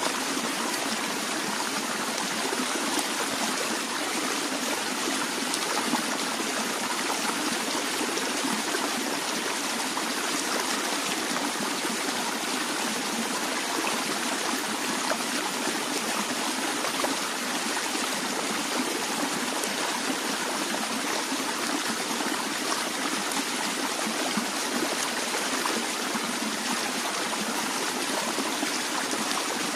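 Stream of water flowing and trickling steadily, an even rushing with fine splashes and no pauses.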